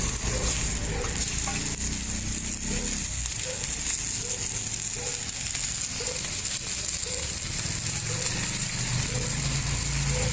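Fish frying in oil on a flat iron tawa, a steady sizzle, with a low hum underneath for part of the time.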